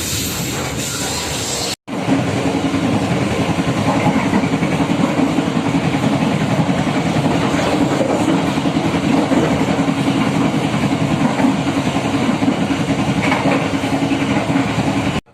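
Passenger train running along the line: steady, loud rail and running noise with a low hum, broken by a short gap about two seconds in.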